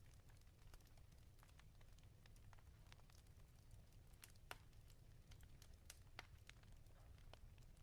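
Faint wood fire crackling in a fireplace: scattered sharp pops and snaps over a low steady rumble, with two louder pops about four and a half and six seconds in.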